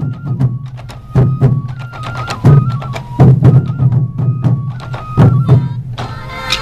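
Sansa odori festival music: large taiko drums struck about once a second under sharp stick clicks, with a bamboo flute playing a stepping melody over them.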